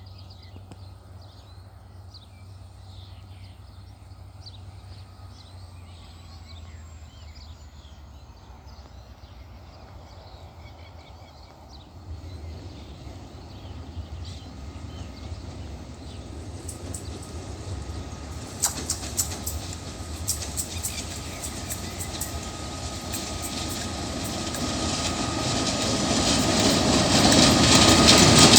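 Diesel-hauled coal train approaching, its low drone and rumble growing steadily louder through the second half, with sharp clicks of wheels over rail joints coming in about two-thirds of the way through. Faint bird chirps in the first several seconds.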